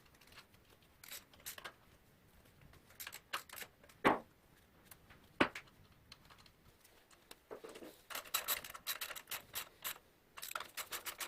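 Hand-tool and hardware sounds while a foot bracket is fitted to the skateboard: a few separate clicks and knocks, then two runs of quick clicking near the end.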